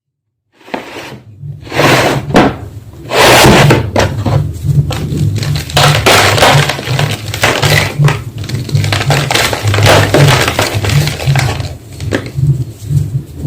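A homemade gym chalk block being crushed, with dense, irregular crunching and crumbling, starting just under a second in, over a low pulsing hum.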